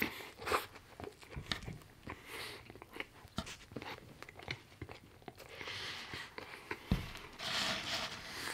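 Close-miked chewing of a mouthful of chicken burger: a string of moist crunches and small mouth clicks. About seven seconds in there is one low thump, then a soft rustle as fries are picked up from the pile.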